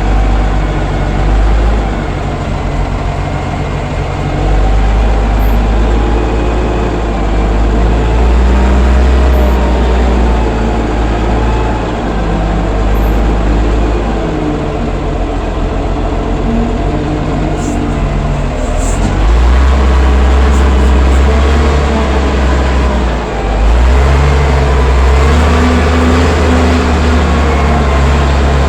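Allis-Chalmers 940 wheel loader's engine running under load, its speed rising and falling several times, with a wavering whine above the rumble.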